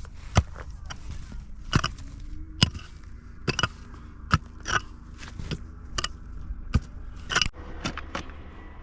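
A series of about a dozen sharp scraping knocks, irregularly spaced about half a second to a second apart, like hand-tool work.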